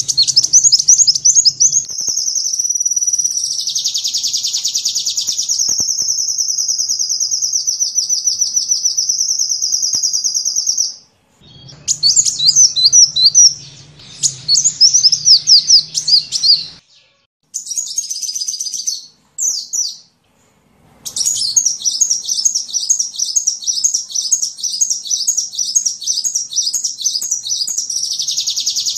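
Sunbird ('kolibri') song: long runs of high-pitched, very fast trills and chirps, broken by a few short pauses midway, then a rapid run of repeated notes. It is a recorded song of the kind played to train caged songbirds.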